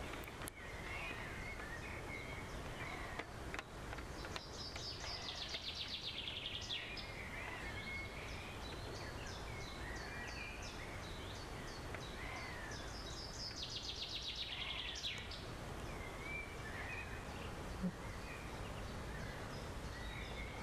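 Wild birds singing: a songbird's fast, descending trilled phrase heard twice, with scattered chirps from other birds over a steady low background hum. A few light clicks in the first few seconds.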